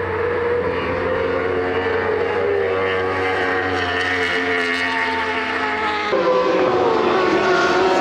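Racing superbike engines running at high revs. About six seconds in the sound changes abruptly and an engine note drops in pitch.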